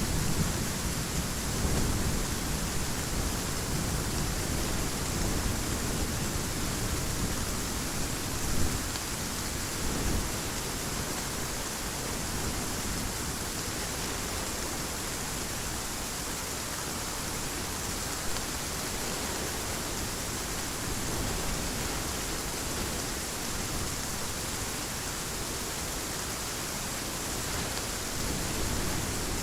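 Steady hiss of heavy rain, with the tail of a thunder rumble dying away in the first couple of seconds.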